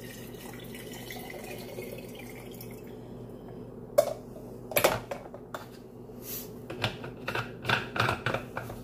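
Water poured from a glass carafe into the reservoir of an Imusa espresso machine, an even trickle for the first three seconds or so. Then a run of sharp clicks and knocks of glass and plastic being handled, the sharpest at about four seconds.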